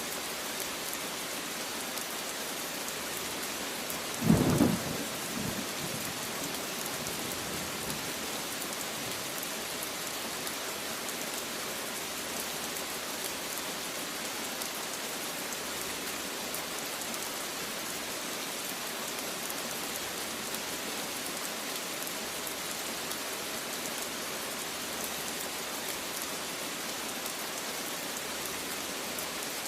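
Steady rain falling, with one sharp clap of thunder about four seconds in that rumbles away over the next few seconds.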